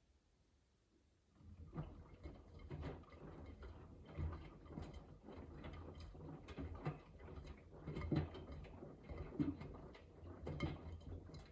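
Miele W3985 washing machine drum starting to turn about a second in after a pause, laundry tumbling and splashing over a low motor hum, with irregular soft knocks and patter during the main wash.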